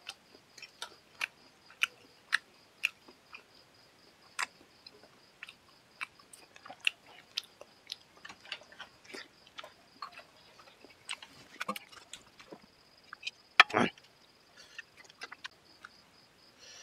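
Close-miked eating sounds of a man eating chicken curry and rice by hand: wet chewing, smacks and clicks several times a second, with one louder one about 14 seconds in. A faint steady high tone runs underneath.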